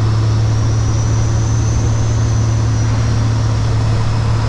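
Kenworth W900 semi truck's diesel engine droning steadily, with road noise, heard inside the cab while driving.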